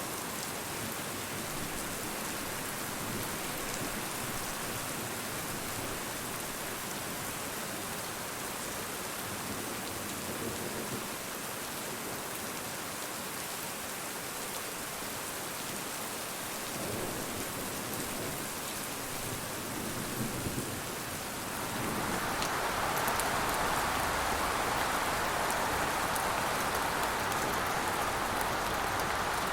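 Steady rain falling on a surface, turning noticeably louder and heavier about two-thirds of the way through.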